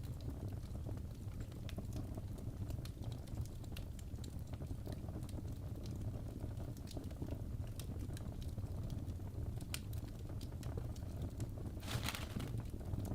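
Wood fire in a fireplace crackling, with irregular sharp pops and snaps over a steady low rumble of the flames. A brief hissing flurry of crackles comes near the end.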